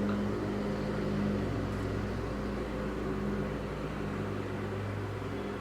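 A low, steady drone with a hum over a faint rumble and hiss, easing off a little toward the end.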